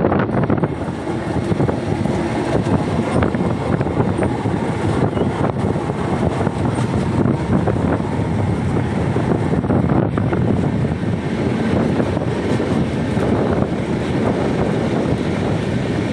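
Passenger train running along the track, a steady rumble, with wind buffeting the microphone.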